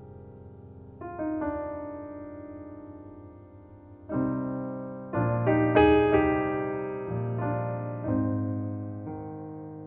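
Solo piano playing a slow piece in C minor. Chords and single notes are struck at uneven intervals of about a second and left to ring and fade, with the loudest cluster of strikes near the middle.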